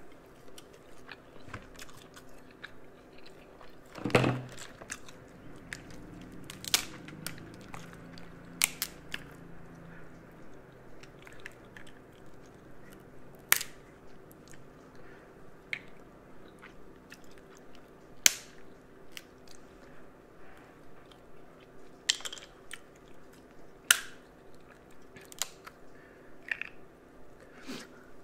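Close-up eating sounds from crab legs: steady, rhythmic chewing, with sharp cracks of crab shell being snapped open by hand scattered throughout, and a louder burst about four seconds in.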